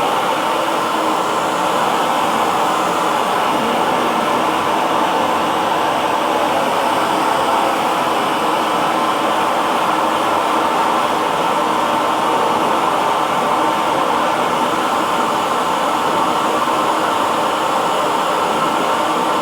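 Hair dryer running steadily: a constant whooshing blower noise centred in the mid range, with faint steady motor tones and no change in level.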